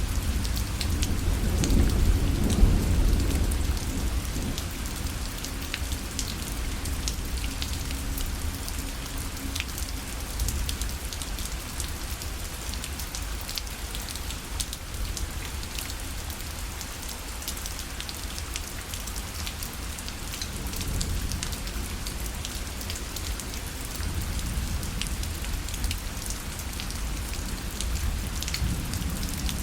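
Steady rain falling on a parasol, with many small drops ticking on the fabric. A low rumble swells in the first few seconds and then eases off.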